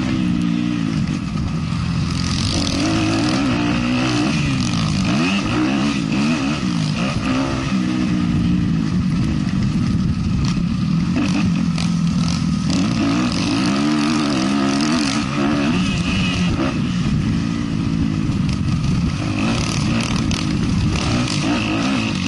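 450cc motocross bike engine being ridden hard, its pitch rising and falling over and over as the throttle is opened and shut, with some clatter.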